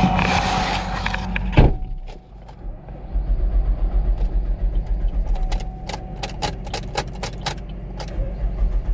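Vehicle engine idling steadily, with one loud clunk about one and a half seconds in, then a run of sharp, uneven clicks a few times a second.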